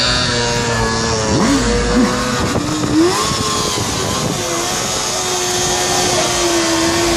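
A vehicle engine held at high revs for a burnout, with a few quick rev blips between about one and a half and three seconds in, then held steady again at a higher pitch.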